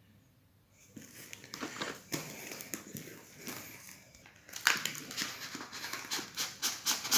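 Packaging being handled during an unboxing: rustling and crinkling with small clicks and knocks, starting about a second in and getting louder from about halfway through.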